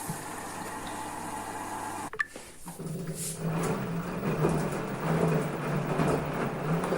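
Washing machine running: a steady hum, a sharp click a little over two seconds in, then a louder churning noise over a low motor hum.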